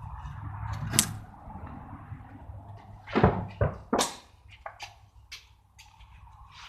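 A few heavy thuds and knocks: a sharp click about a second in, then three loud thuds in quick succession a little past the middle, followed by lighter ticks.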